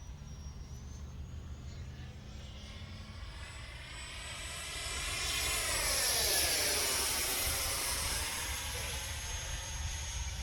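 Electric ducted fan RC model jet passing close by: its high fan whine and whoosh swell to a peak about six seconds in, sweep through a dip in tone as it goes past, and fade away.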